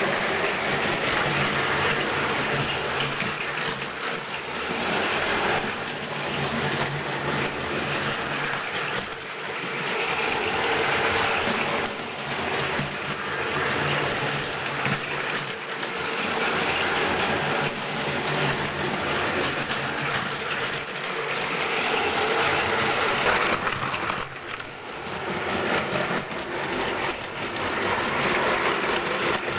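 Plarail toy train's small battery motor whirring as it runs, with a continuous rattle from the plastic wheels and track; it grows louder and softer by turns.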